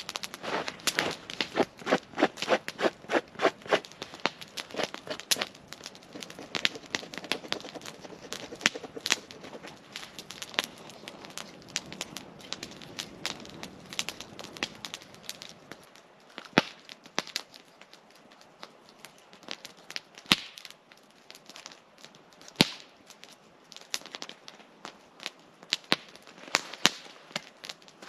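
Wood campfire crackling and popping in sharp, irregular snaps. A quick run of evenly spaced clicks comes in the first few seconds, and the pops grow sparser in the second half.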